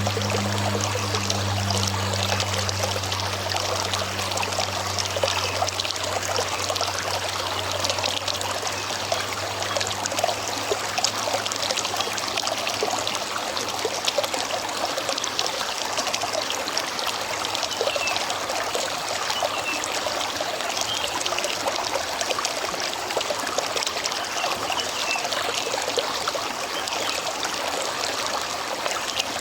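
River water flowing and trickling over stones in a steady, even rush. A low engine-like hum fades away over the first several seconds.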